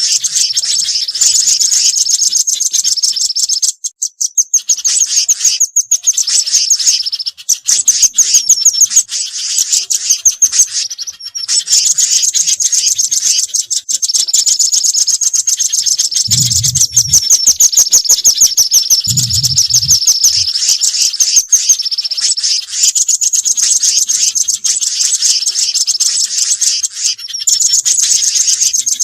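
Bird-lure recording of small songbirds calling: dense, rapid high-pitched chattering trills that repeat almost without pause. Two short low thumps come a little past the middle.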